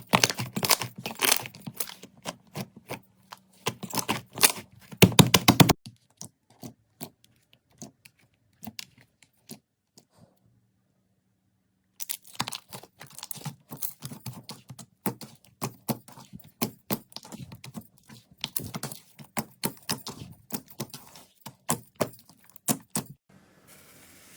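Slime worked by hand, giving quick crackling pops and clicks. They thin out and stop for about two seconds near the middle, then start again.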